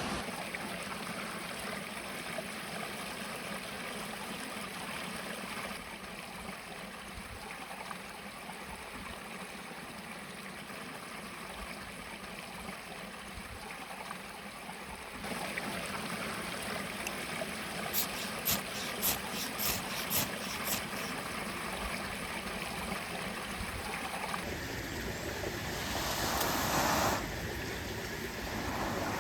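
A small mountain stream flowing steadily. About two-thirds of the way through comes a quick run of about eight sharp ticks, and near the end a brief louder rush of noise.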